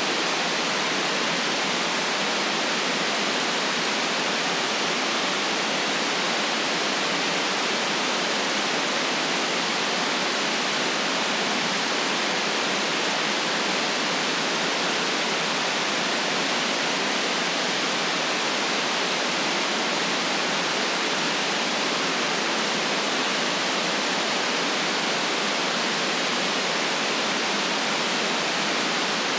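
Steady white noise: an even, unchanging hiss with no deep bass.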